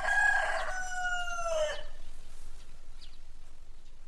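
Rooster crowing once: one long call, held level and then falling in pitch at the end, about two seconds in. A faint short chirp follows.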